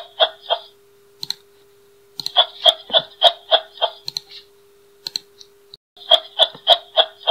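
Kangaroo calling in bouts of rapid clicking pulses, about three a second, each bout lasting a second or two and starting again every few seconds.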